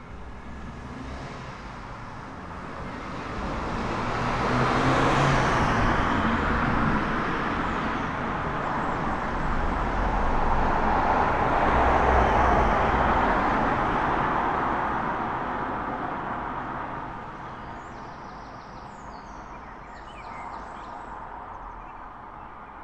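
Road traffic: two vehicles pass in turn, their tyre and engine noise swelling and fading, loudest about five and about twelve seconds in. Faint bird chirps can be heard near the end as the traffic dies away.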